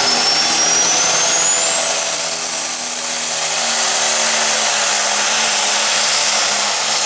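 Light Pro Stock turbocharged diesel pulling tractor under full load, the engine running hard with a high turbo whine that climbs steadily in pitch.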